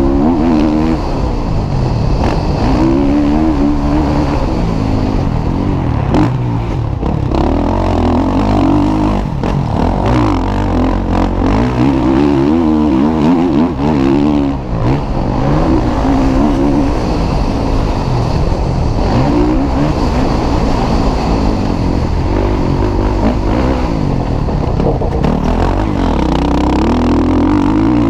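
Motocross bike engines racing on a track, revving up and easing off again and again as the riders accelerate and shift through the gears.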